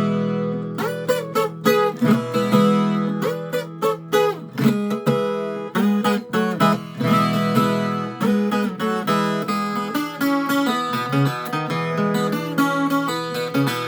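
Viola caipira, the ten-string Brazilian folk guitar, played as a run of plucked notes and ringing chords.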